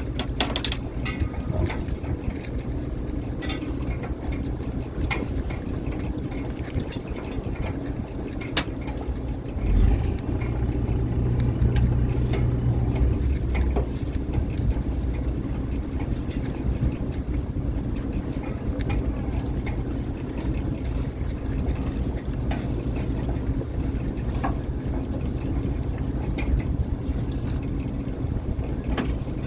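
Fishing boat's engine running steadily with a low rumble, with scattered clicks and knocks over it; the rumble swells briefly about ten seconds in.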